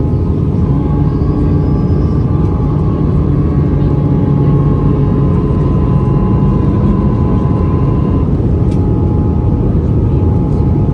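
Steady cabin noise of an Airbus A320-214 airliner: its CFM56 engines and the airflow over the fuselage, with faint steady tones above.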